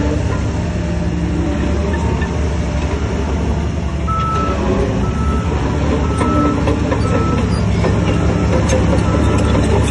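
Heavy diesel earthmoving machinery running under load, with a reversing alarm starting about four seconds in and beeping steadily, just over one beep a second.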